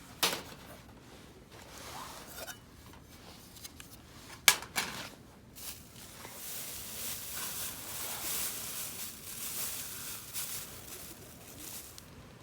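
Close handling noises: a sharp click just after the start, two more clicks about four and a half seconds in, then about five seconds of steady rustling that fades before the end.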